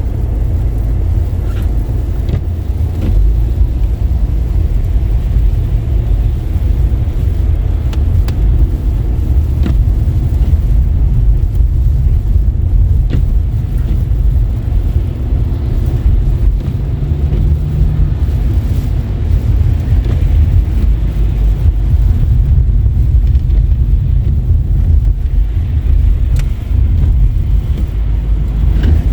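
A car driving on wet, slushy roads: a steady low rumble of tyres and engine, with a few faint clicks here and there.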